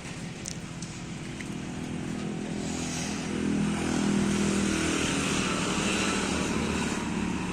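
Diesel tractor engine running, growing louder about three seconds in and staying up.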